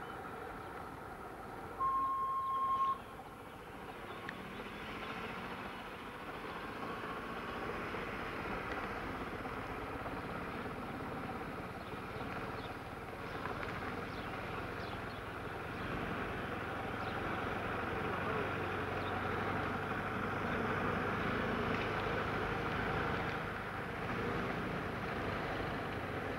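Vehicle engine running steadily while driving slowly, a little louder in the second half, with a short, loud single-tone beep about two seconds in.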